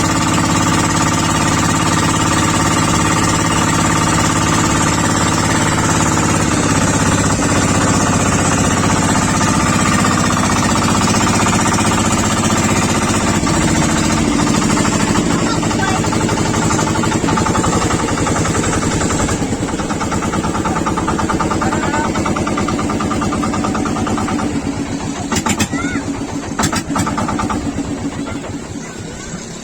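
A small boat's motor running steadily, its pitch dropping about six seconds in and shifting again later as the throttle changes, then easing down near the end, with a few sharp clicks shortly before.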